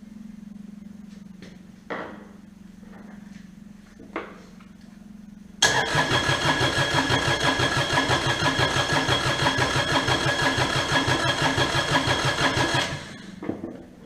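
Kubota D722 three-cylinder diesel being cranked over by its starter for about seven seconds, with an even pulsing beat, to bleed air and push fuel up to the injectors after the injection pump was refitted. It starts abruptly about halfway in and stops shortly before the end.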